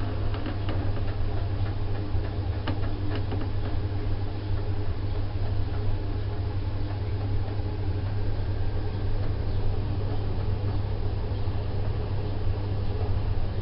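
Vaillant gas boiler running with a steady low drone and a few faint ticks in the first seconds. The owner cannot trace this strange noise to any single part, but it goes away when the combustion air inlet is adjusted.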